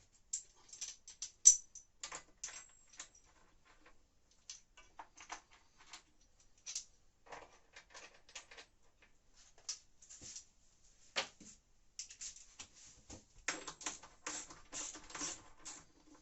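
Irregular clicks, knocks and scraping of metal and plastic parts and tools being handled while a washing machine is put back together, with one sharp knock about a second and a half in and a busier rattling patch near the end.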